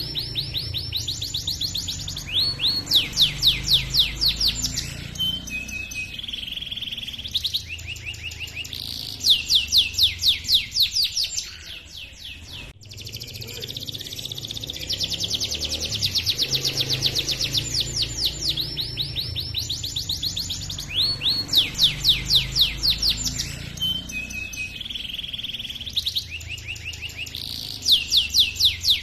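Domestic canary singing a long rolling song: fast trills of high, evenly spaced notes, with brief pauses and short held whistles between phrases. A sharp cut about thirteen seconds in starts the same run of song over again.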